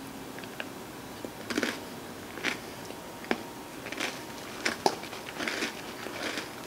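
Close-miked chewing of ice cream with crunchy vanilla wafers and white-chocolate-covered pretzels: irregular crunches and wet mouth clicks, one or two a second.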